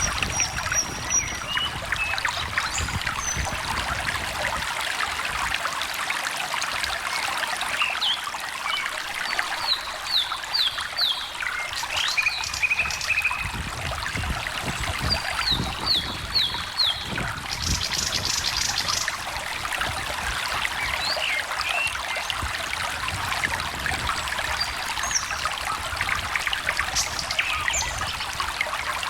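Small stream trickling and babbling steadily, with birds singing over it: scattered short calls and a few quick runs of notes, one run of four falling notes heard twice.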